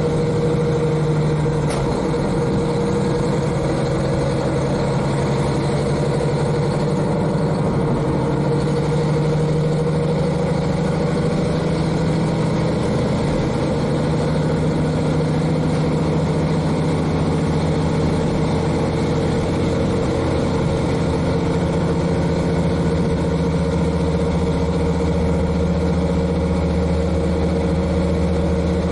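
KiHa 40 diesel railcar's N-DMF13HZI six-cylinder diesel engine, heard from directly above, running steadily while the car is under way. The engine note shifts slightly about two seconds in, and a deeper hum grows stronger near the end.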